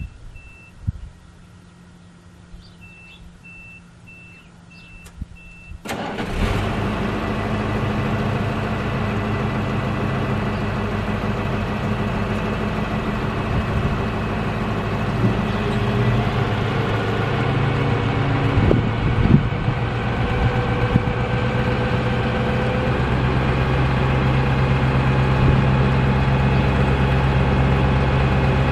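Dump truck's diesel engine being started: a few short electronic warning beeps with the key on, then about six seconds in the engine cranks, catches and settles into a steady idle.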